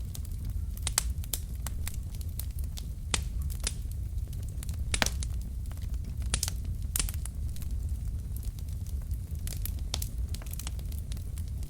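Wood logs burning in a fireplace: irregular sharp crackles and pops over a steady low rumble of the flames, the loudest pop about five seconds in.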